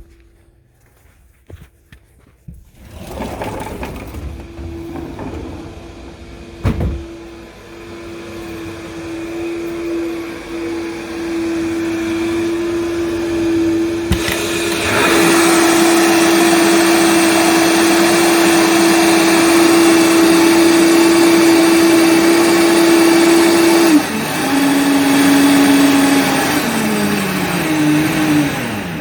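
Vitamix blender motor running with a steady whine over a rush of noise, growing louder about halfway through. Near the end it drops in speed and winds down with a falling whine.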